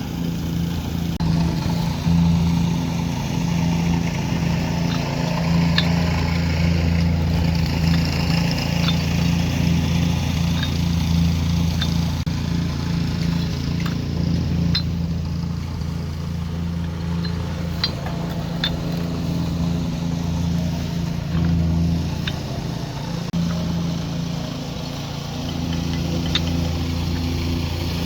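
Heavy machine's engine running steadily, its low hum swelling and easing every few seconds as the load changes, with scattered light clicks and knocks over it.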